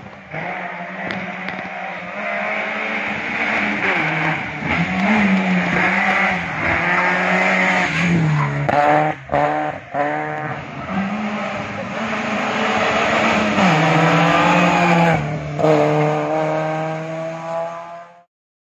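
A Citroën Saxo VTS rally car's four-cylinder engine revving hard at full throttle. Its pitch climbs and drops again and again with gear changes and lifts for the corners. The sound cuts off suddenly near the end.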